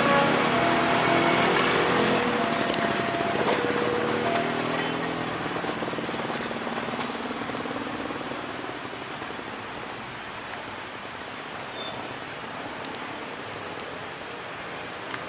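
Passenger train coaches running away on the rails, their wheel noise fading steadily, with thin ringing tones from the wheels over the first five seconds or so. A steady hiss of heavy rain is left underneath.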